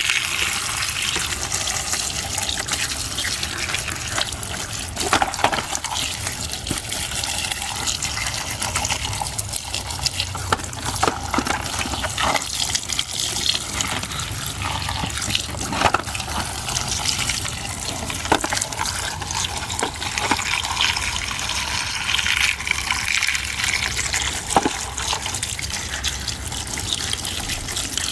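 Water running and splashing steadily, as when muddy toys are rinsed, with occasional sharp clicks and knocks scattered through it.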